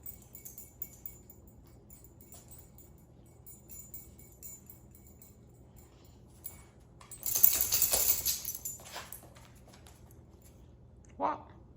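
A Siberian husky's collar tags jingling lightly, then jangling loudly for about two seconds in the middle as the dog moves. A brief sound falling in pitch comes near the end.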